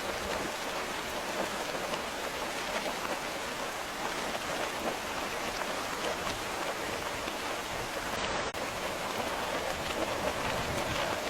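Steady rain falling, an even, dense patter of drops, with a momentary dip about three quarters of the way through.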